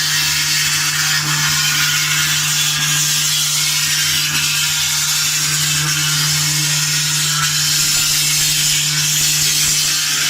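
CNC engraving machine's spindle cutting into a silver plate: a steady high hiss over a constant hum.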